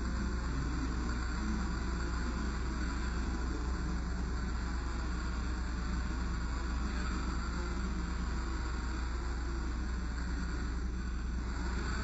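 1/14 scale radio-controlled Scania R620 truck model running with a steady low rumble.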